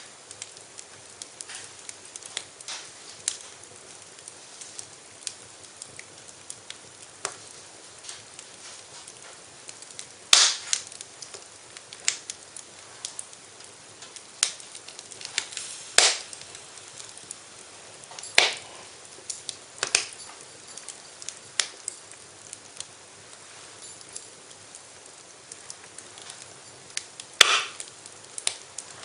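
Wood fire crackling in a fireplace: a faint steady hiss with irregular sharp pops and snaps, a handful of them much louder than the rest.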